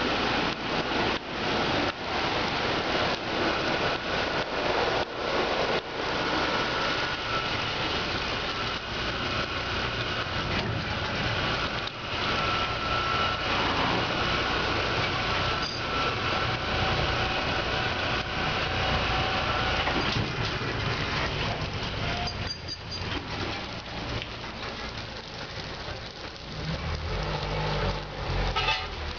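Ceccato Ginga W 240 gantry car wash running: its rotating polyethylene brushes swish and slap against the car amid a steady rush of water. A steady machine whine runs through the middle and fades out about two-thirds of the way in, and a deeper rumble follows near the end.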